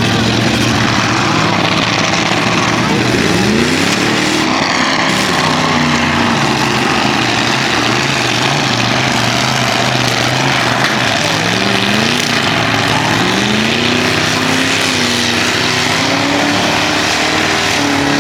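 Demolition derby truck engines running hard and revving, their pitch climbing and dropping again and again, over a dense steady wash of engine and crowd noise.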